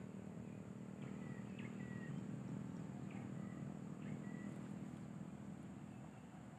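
A steady low hum runs throughout, with a thin steady high whine above it. A bird gives about four short chirps, each with a brief trailing note, over the first few seconds.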